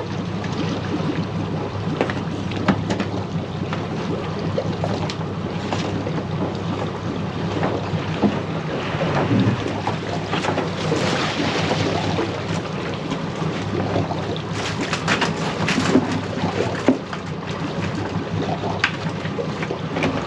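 Crab boat's motor running steadily under wind and water noise, with scattered short knocks from trap handling on deck.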